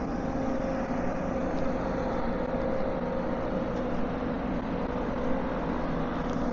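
An engine running steadily: a constant low hum with an even pitch, over a wash of urban noise.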